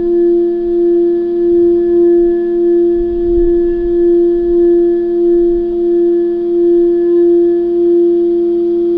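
Singing bowl sustaining a single held tone with a few higher overtones. It pulses in a slow wavering beat, about one and a half swells a second, that evens out near the end.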